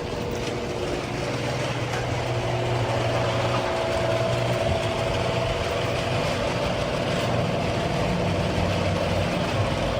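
Garage door running on its electric opener with worn old rollers, shaking, rattling, screeching and grinding steadily along the tracks with the opener's hum underneath. That much noise is a sign of friction from the worn rollers.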